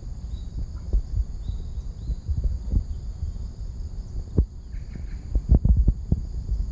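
Faint short bird chirps over a steady high insect drone, with frequent low thumps and rumble on the microphone as the loudest sound.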